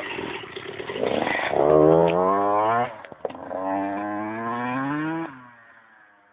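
Motocross bike engine accelerating hard. Its pitch climbs, drops briefly at a gear change about three seconds in, climbs again, then fades away as the bike moves off.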